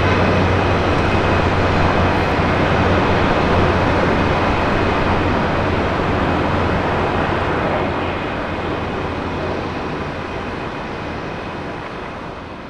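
Jet airliner engines, a loud steady rush with a thin high whine, fading away over the last few seconds as the aircraft moves off.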